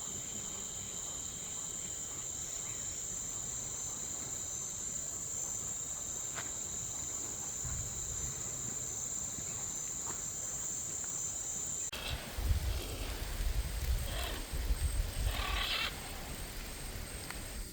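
A steady, high-pitched insect chorus drones on and cuts off suddenly about twelve seconds in. Uneven low rumbling and a few short, higher sounds follow it.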